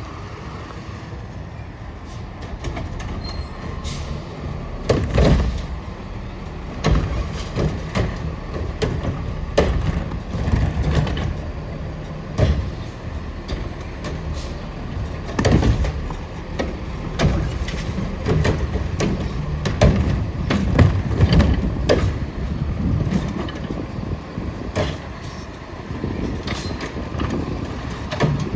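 Autocar ACX garbage truck with a Heil Curotto Can body, its engine running with a steady rumble, with repeated sharp bangs and clatter throughout, the loudest around a third of the way in and again past the middle.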